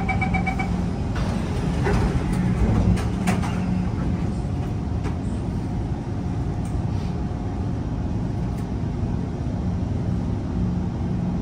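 Inside a Kawasaki C151 MRT train: a rapid two-tone door-closing beeping stops in the first second, a few sharp clunks follow, then the train's steady low rumble.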